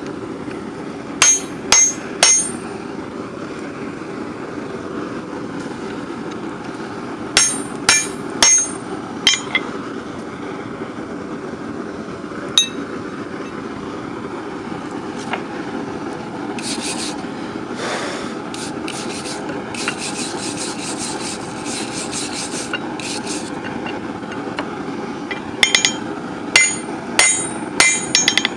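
Hammer blows on hot steel bar over an anvil, in short groups of three or four ringing strikes with pauses between. A steady rushing noise from the forge runs underneath, and midway there are several seconds of rapid scraping.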